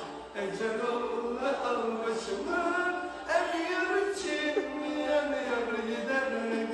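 A man singing a wavering melody, with long held notes that slide up and down in pitch.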